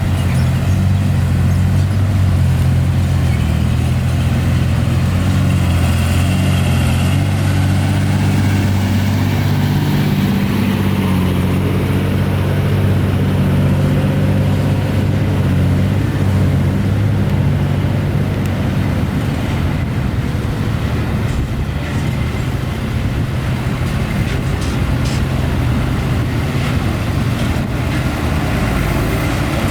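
Heavy diesel engines of earthmoving machinery (dump trucks and a bulldozer) running under load, a loud steady low drone that eases somewhat past the middle. A few short knocks come in the second half.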